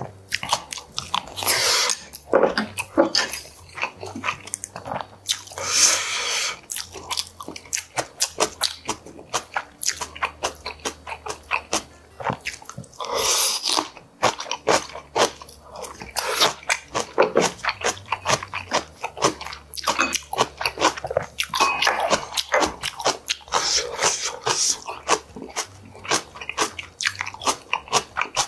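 Close-miked eating: chewing and crunchy bites of fresh cabbage kimchi with boiled pork and rice, a dense, irregular run of mouth clicks and crunches.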